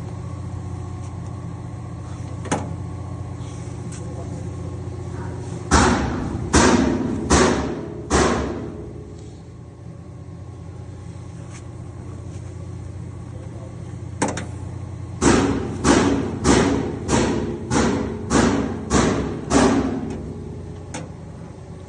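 Duvet and blanket washing machine running with a steady motor hum. Heavy thuds come in two runs as the load inside hits the drum: four about six seconds in, then about eight at an even beat near the end.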